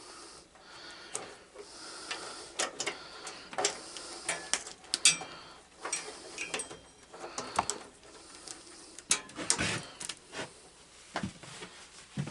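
Metal hand tools clinking and clattering as they are rummaged through. The irregular clicks and knocks include one brief metallic ring about five seconds in.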